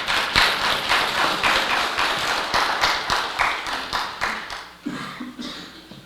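Audience applauding, strongest at first and dying away over the last second or two.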